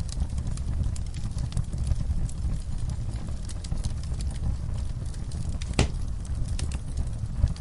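Wood fire burning in a fireplace: a steady low rumble of flames with irregular crackles and pops, one sharper pop about six seconds in.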